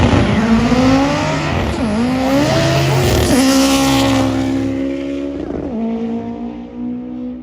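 Drag racing car accelerating hard down the strip after launch, its engine pitch climbing and then dropping at gear shifts about two and three and a half seconds in, fading as it pulls away.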